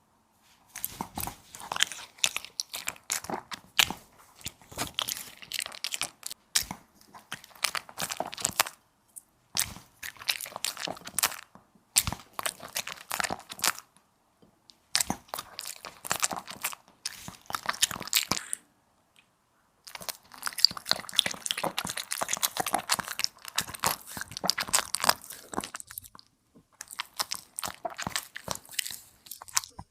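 A dog crunching and chewing food close to the microphone, in bouts of a few seconds with short pauses between them.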